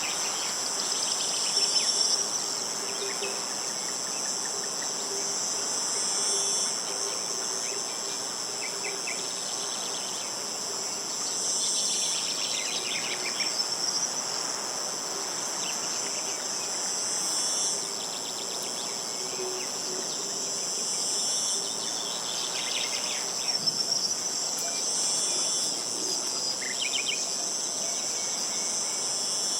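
A steady, high-pitched insect chorus drones without a break. Short trills of bird calls cut in a few times, about two seconds in, around twelve seconds, around twenty-three seconds and near the end.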